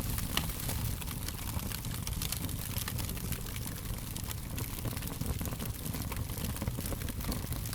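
Fire crackling: many small, irregular pops and snaps over a low, steady rumble.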